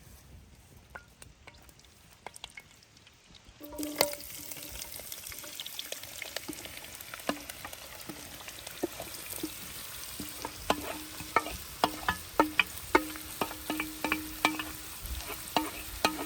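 After a quiet start, sizzling with sharp pops starts suddenly about four seconds in, like food frying in a pan. The pops come more often toward the end, over a low tone that comes and goes.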